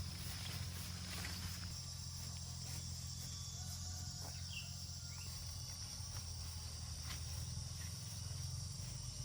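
Insects chirring steadily, a high even buzz, over a low steady rumble, with a few faint clicks.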